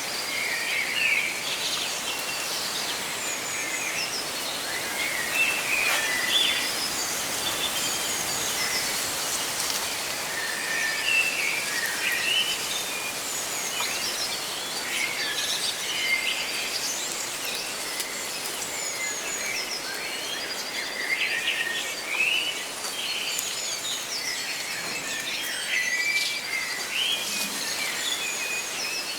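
Several songbirds chirping and trilling, short calls coming and going, over a steady hiss of rustling leaves.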